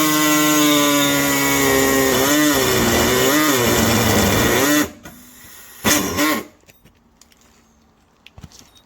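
Compressed-air hacksaw running and cutting through a Mk3 Golf's steel exhaust pipe to free the catalytic converter. Its steady pitch dips and wavers as the blade bites, and it stops just under five seconds in. A short second burst comes about a second later, then only faint clicks and taps.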